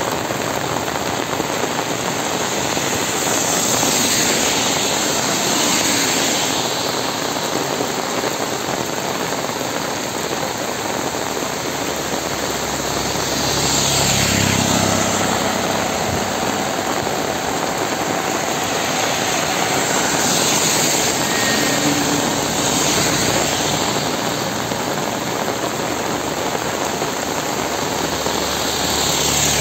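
Heavy rain falling steadily, as a dense even hiss that swells louder several times.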